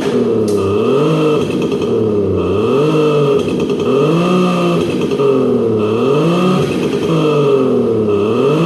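Kia K5 (DL3) turbo with a Just Active Sound G1 active exhaust sound system, its engine revved again and again with the car standing still: the exhaust note climbs and drops about every second and a half.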